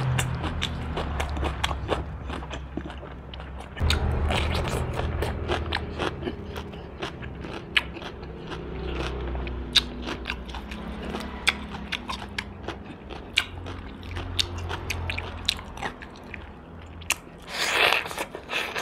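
Close-miked chewing and biting of roast duck: many sharp little crunches and wet mouth clicks, with a louder noisy burst near the end.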